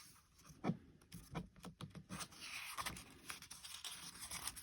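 Soft rustling and scraping of paper, a picture book's pages being handled and turned, in a string of short scratchy sounds.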